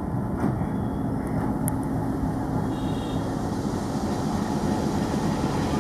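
WDM-3A diesel locomotive's engine running steadily: an even low rumble with a constant hum.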